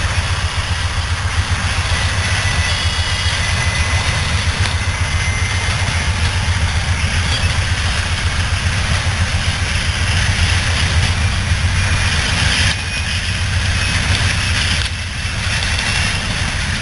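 Norfolk Southern train rolling past: a loud, steady, rough rumble of the train on the rails, with faint thin high squeals over it. The sound dips briefly twice near the end.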